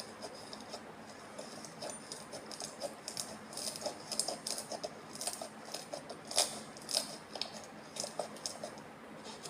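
Slime being squished and worked by hand, giving irregular small wet clicks and crackling pops, loudest about six seconds in.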